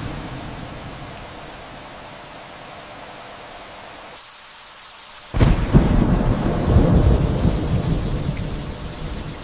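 Rain falling steadily with thunder. A low rumble fades away over the first few seconds, then a little past halfway a sudden loud crack of thunder sets in and rolls on, slowly dying down toward the end.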